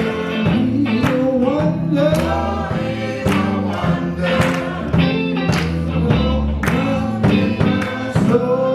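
Live gospel music: singers and a choir over a band with bass and a steady drum beat.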